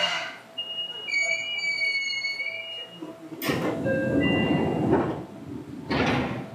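Sounds aboard a Seibu 2000 series train: a few seconds of steady high electronic tones, then a loud rush of noise lasting over a second and a shorter one near the end.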